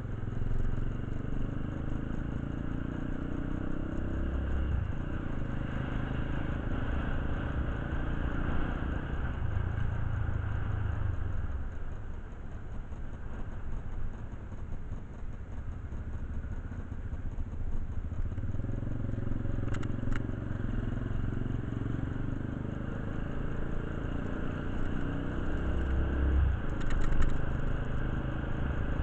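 An engine running steadily, its low hum swelling and easing, with a few short clicks and clatter near the middle and the end.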